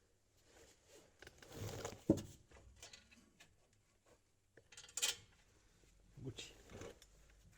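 Scattered metal clinks, knocks and handling noise from hand work on exhaust parts, with a sharp knock about two seconds in and a short hissing scrape about five seconds in.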